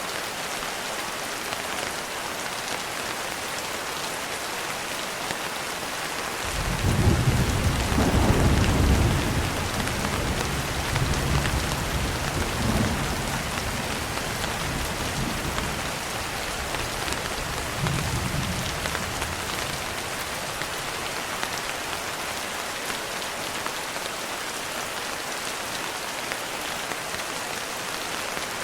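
Steady rain, with a low roll of thunder coming in about six seconds in, loudest for a couple of seconds, then rumbling away over the next dozen seconds with one smaller swell before the rain is left alone again.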